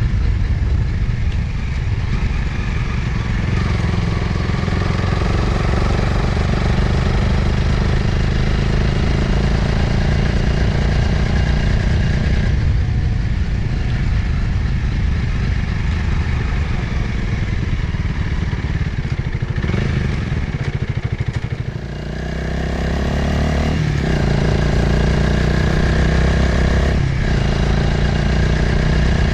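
Motorcycle engine running steadily under way, with wind noise over the microphone. About 22 s in the engine briefly drops off, then pulls again with rising pitch as the bike accelerates.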